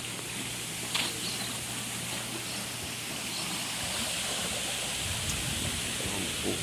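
Running water making a steady rushing sound, with a few faint clicks.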